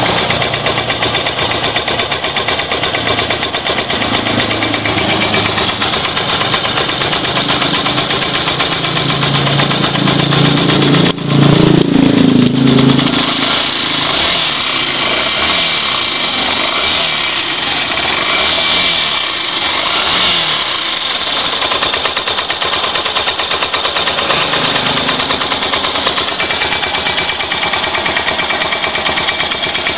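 Yamaha SZ-R motorcycle's single-cylinder engine idling steadily, revved briefly about ten seconds in before dropping back to idle.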